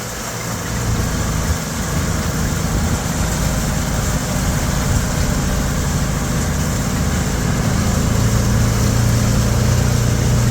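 A 140-horsepower tractor engine running steadily under load while pulling a hay rake. The deep engine note grows stronger about eight seconds in.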